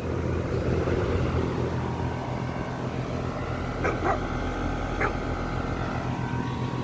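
Lennox heat pump's outdoor unit running in cooling mode: a steady low electrical hum from the compressor under the rushing air of the condenser fan. Three brief higher-pitched sounds stand out about four and five seconds in.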